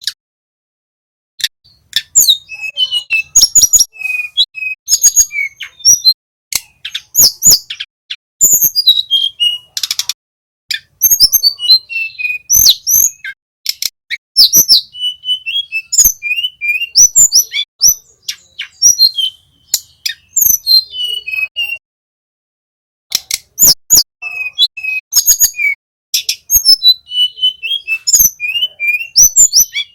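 Male hill blue flycatcher (tledekan gunung) singing: a busy run of quick chirps and short whistled notes, mixed with sharp clicks, with a brief pause about two-thirds of the way through.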